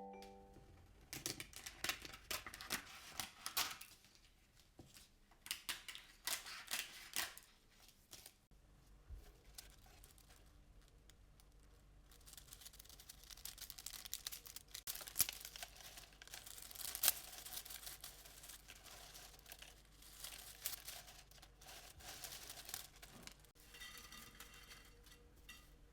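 Brittle dry rice paper being torn and broken up, crisp tearing and crackling in short bursts, then denser crackling over a faint steady low hum that starts about a third of the way in.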